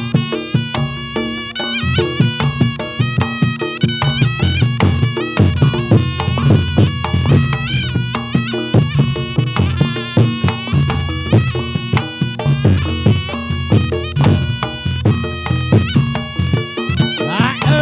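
Reog Ponorogo accompaniment for a jathilan dance: a reedy slompret (shawm) plays a wandering melody over steady beats of drums and struck percussion.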